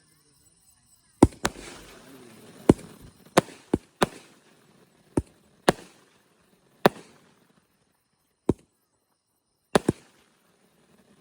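Multi-shot aerial repeater cake firing, about a dozen sharp bangs at uneven intervals, with a hissing trail after the first few shots.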